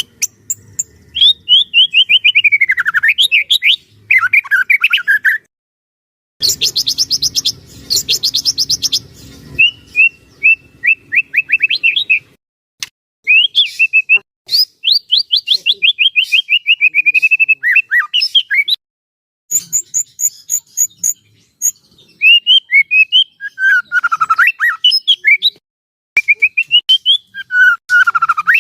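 White-rumped shama singing its full, varied song in phrases: rapid runs of clear whistled notes sliding downward, quick trills, and a harsh high chatter a few seconds in, with short pauses between phrases.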